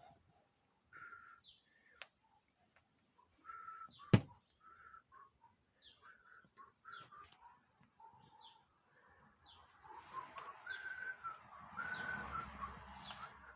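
Small birds chirping in short, scattered calls, with one sharp click or knock about four seconds in and a rise of faint background noise near the end.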